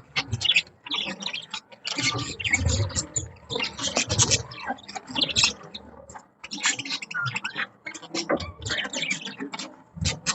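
Budgies chattering: a steady stream of short, scratchy chirps and clicks in quick succession.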